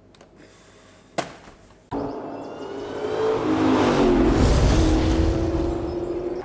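A sharp click about a second in, then a Ford Shelby GT500 Mustang's V8 engine revving hard as the car accelerates, its pitch climbing and dropping back with the gear changes. It is loudest around the middle.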